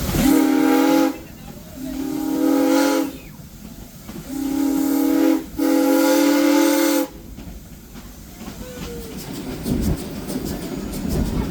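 Steam whistle of a 1920-built 2-8-0 steam locomotive blowing four blasts, the last two nearly run together, over the steady hiss and rumble of the moving train. After the whistle the train runs on, with rail clicks toward the end.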